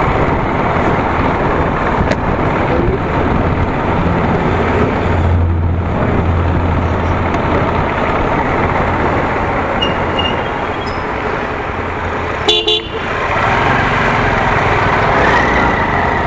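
Steady rush of wind and road noise from a motorcycle ride through traffic, with a short vehicle horn toot about twelve seconds in.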